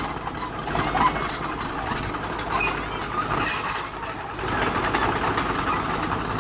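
Bulldozer's diesel engine running under work, with a steady rattle and a couple of sharp clanks about a second in.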